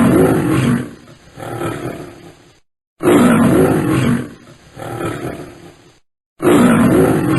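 An animal's roar, the same recording looped: a loud drawn-out roar followed by a quieter second call, repeated three times about every three and a half seconds with short silent gaps between.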